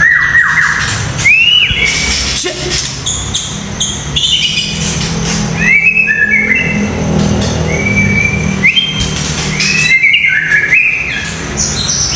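White-rumped shama (murai batu) singing: a fast run of sharp, upward-sweeping whistled notes mixed with harsh clicking chatter. These are the rough 'tembakan' (shot) phrases valued in songbird contests.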